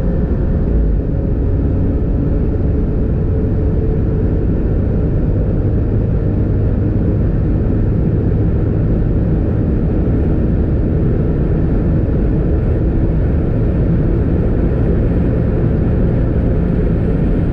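Alfa Romeo Giulia Quadrifoglio's twin-turbo V6 holding a steady low drone, mixed with tyre and wind noise as the car runs at an even pace. The revs dip slightly in the first second and then stay level.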